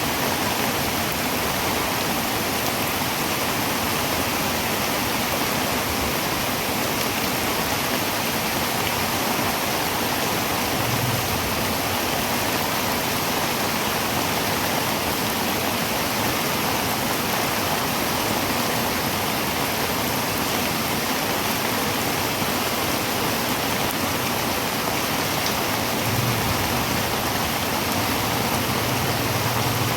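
Heavy rain drumming steadily on a tin roof, a dense, even hiss with no let-up. A faint low hum comes in briefly partway through and again near the end.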